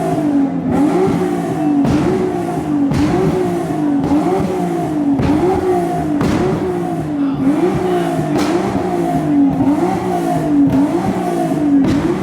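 Car engine revving over and over in quick rises and falls of pitch, about one and a half a second, with rough, noisy edges.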